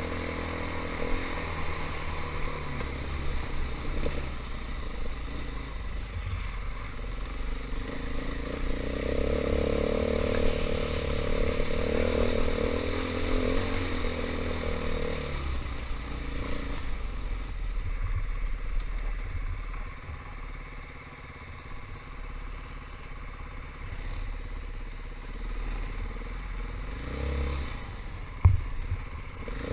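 A KTM 500 EXC's single-cylinder four-stroke dirt-bike engine running on the trail, its revs rising and falling. It gets louder a third of the way in and eases off past halfway. A single sharp knock comes near the end.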